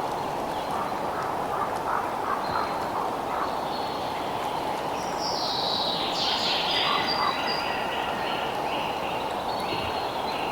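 Nature ambience: a steady low rushing noise with repeated high chirping and trilling animal calls above it. About halfway through comes a louder run of stepped, falling calls.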